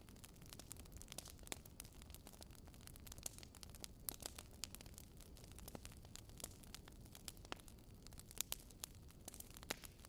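Quiet campfire crackling: frequent, irregular small pops and snaps of burning wood over a low, steady rumble.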